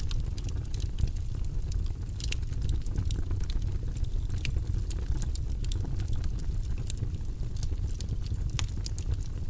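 Wood fire crackling, with a steady low rumble and many small irregular pops and snaps.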